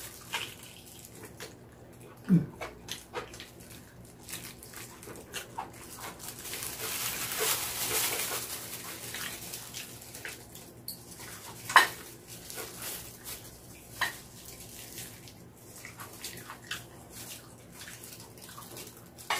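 Close-up eating sounds of someone chewing sauce-glazed mini pork feet (jokbal) held in gloved hands: scattered wet clicks and mouth smacks. A few seconds of hiss-like noise swell and fade around the middle, and one sharper click comes a little after.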